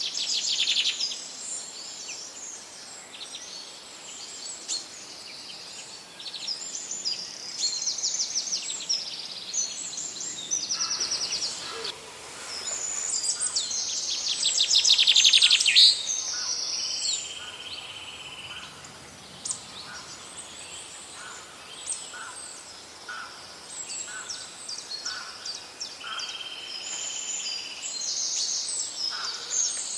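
Several birds singing together in a forest: overlapping chirps, rapid trills and whistled notes, with one loud trilling burst of song about 13 to 16 seconds in.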